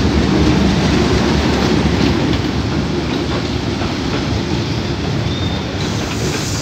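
Passenger coaches of a train hauled by a D12E diesel locomotive rolling past close by, the wheels on the rails making a steady low rumble that is loudest in the first couple of seconds.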